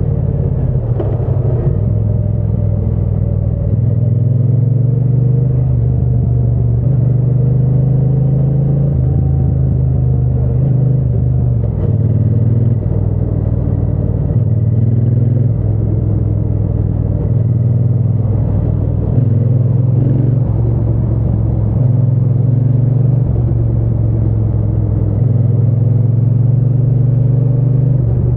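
Triumph Bonneville T120's parallel-twin engine and exhaust rumbling while riding, its pitch shifting up and down every few seconds as the throttle opens and closes.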